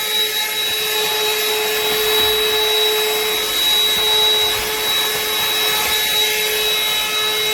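BLACK+DECKER Dustbuster 20V cordless handheld vacuum running continuously and pretty loud: a steady motor whine over the rush of air.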